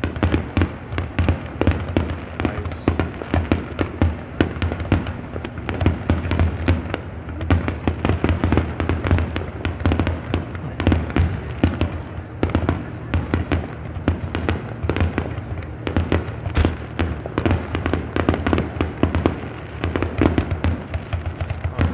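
Fireworks finale barrage: many shells going off in rapid, overlapping bangs with no pause.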